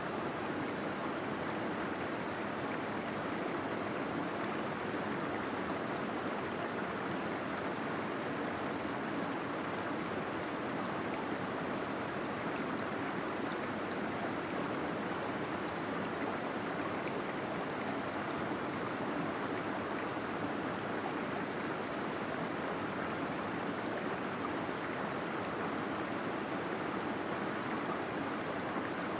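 Small waterfall in a cave, water flowing and gurgling in a steady, unbroken rush.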